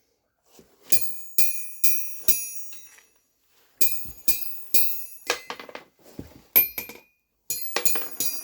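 3/4-inch 52100 steel ball bearings dropped onto the face of a 165 lb Ridgid Peddinghaus steel anvil, bouncing with bright, ringing clinks. Each drop gives a run of bounces that come quicker and fainter as the ball settles, several drops one after another, with a faster cluster of strikes near the end.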